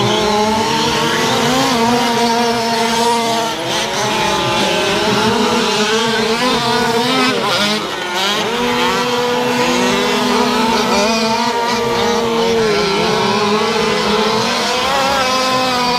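Several 1/5-scale gas RC trucks' small two-stroke engines racing together, their overlapping whines rising and falling as the throttles open and close.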